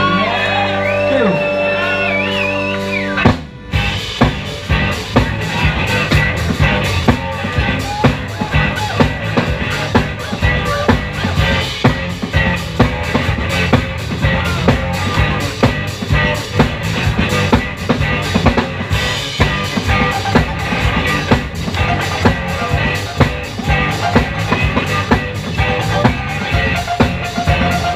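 Live rock band playing, no singing. A held chord rings for about three seconds and breaks off briefly, then the full band comes in with a steady drum-kit beat under guitar and bass.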